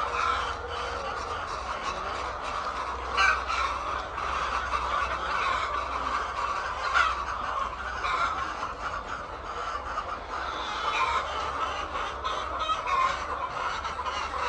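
A flock of chickens clucking and squawking continuously, with two sharper, louder squawks about three and seven seconds in.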